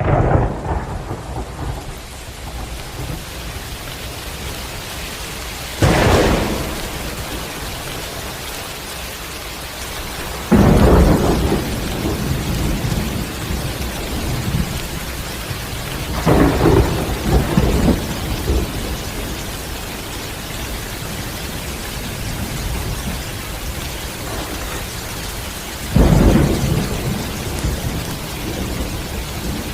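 Steady heavy rain with thunder breaking out in five loud claps and rumbles that fade over a second or two each, spaced about five to ten seconds apart; the loudest comes about a third of the way in.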